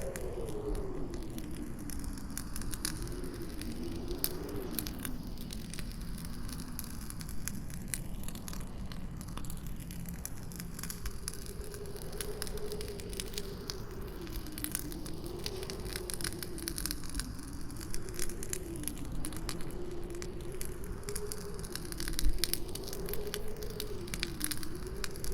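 Campfire crackling with many sharp pops, over a low howling wind whose pitch wavers up and down. A few louder pops near the end.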